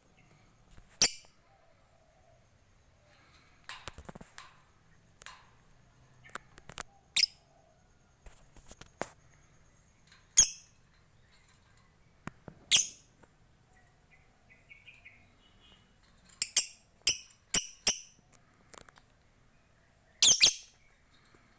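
Lovebird giving short, shrill, high-pitched calls at irregular intervals, with a quick run of four or five calls about two-thirds of the way through and a longer double call near the end.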